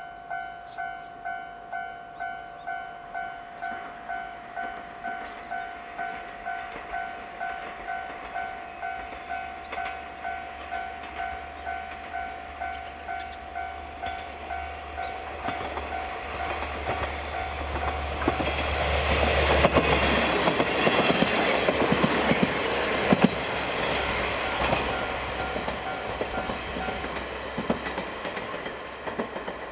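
A level-crossing warning bell rings about twice a second, while a two-car KiHa 47 diesel railcar train rumbles closer. About two-thirds in the train passes loudly, its wheels clicking over the rail joints, and the bell fades out as the train draws away near the end.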